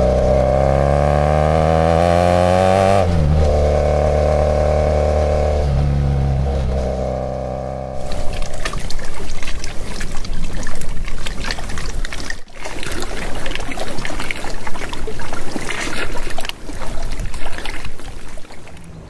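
BMW F800GS parallel-twin motorcycle engine running under way. It revs up, drops back about three seconds in, then runs steadily. About eight seconds in it cuts abruptly to a gusty rush of wind on the microphone and water at the shore, with a short break about twelve seconds in.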